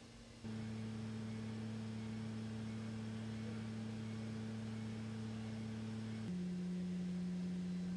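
Nissan GT-R V6 engine running steadily on a test bench, heard as a deep, even hum that comes in sharply about half a second in. About six seconds in its pitch steps down and it gets a little louder.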